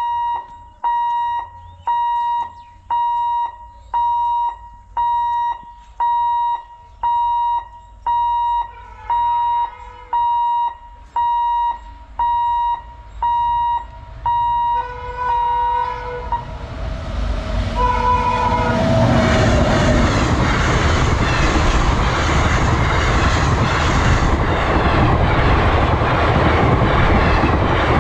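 Level-crossing warning alarm beeping about once a second while an express train approaches; the locomotive horn sounds near 9 seconds and again from about 15 to 18 seconds. The train's noise then builds from about 16 seconds, and from about 19 seconds the Teesta Torsa Express runs through the crossing at high speed, loud and steady.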